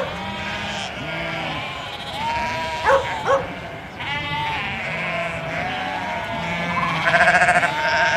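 A flock of sheep bleating, many calls overlapping, with low deep bleats under higher ones. Two short sharp calls come about three seconds in, and a loud quavering bleat comes near the end.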